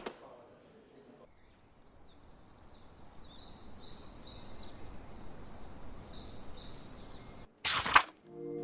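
Faint outdoor ambience with small birds chirping and twittering over a light hiss, ended near the close by a loud half-second burst of noise.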